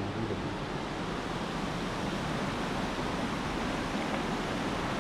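Fast-flowing mountain river: a steady, even rush of water.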